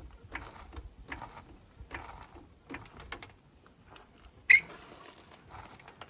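Small scrapes and taps of hand work at a car wheel, about one a second, then a single sharp metallic click about four and a half seconds in.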